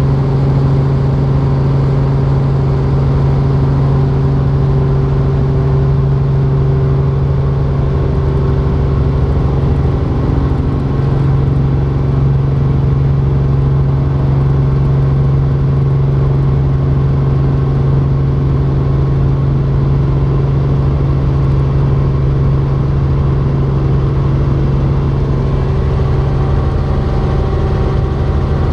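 Robinson R44 Raven II helicopter in flight: its six-cylinder Lycoming engine and rotors make a loud, steady drone with a strong low hum.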